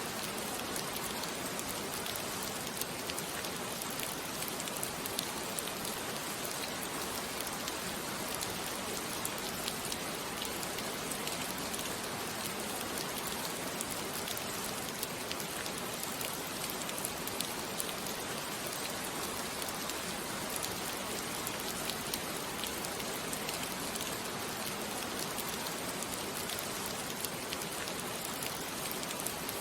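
Steady rain falling on a surface, a dense even hiss with many small scattered drop ticks and no thunder.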